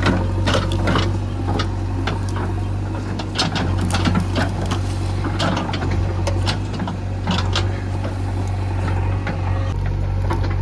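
Backhoe loader's diesel engine running steadily under work, with irregular sharp clanks and knocks over it.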